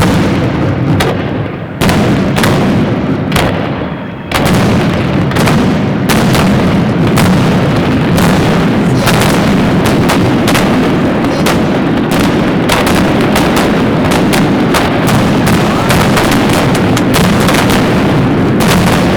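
Fireworks salute: aerial shells going off in rapid, overlapping bangs with no gaps between them. The barrage eases briefly twice in the first few seconds, then comes back suddenly and stays dense.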